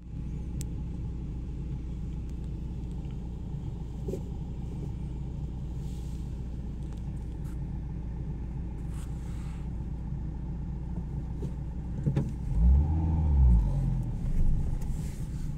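A car being driven on the road: steady low engine and road noise. About twelve seconds in, a louder low rumble rises and falls in pitch for a second or two.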